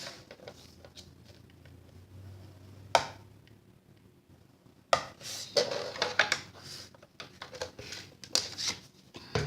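Cardstock being handled and scored on a scoring board: a sharp tap about three seconds in, then a run of clicks, taps and scraping strokes of the scoring tool over the paper in the second half.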